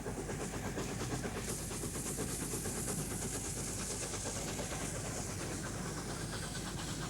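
LNER A4 Pacific steam locomotive working at speed: a rapid, even run of beats, with a hiss of steam that swells about a second and a half in and fades again.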